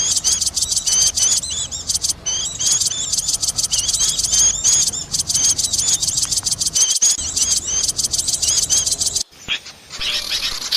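Small-bird lure recording for bird trapping: a noisy chorus of rapid, high-pitched chirps at about ten notes a second. It breaks off about nine seconds in, and fainter, more varied chirping follows.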